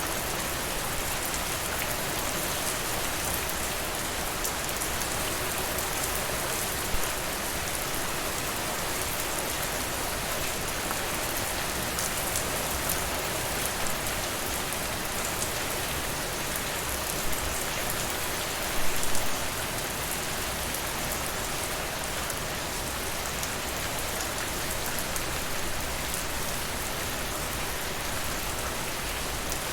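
Steady rain hiss, with a few brief sharp crackles from a wood fire, a short cluster of them about 19 seconds in.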